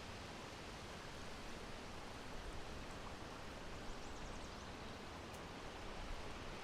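Steady breeze blowing, an even, unbroken hiss of wind noise with no gusts or changes.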